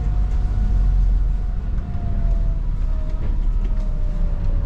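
Volvo 8900 city bus driving, heard inside the cabin: steady low engine and road rumble, with a faint whine that slides slightly lower near the end.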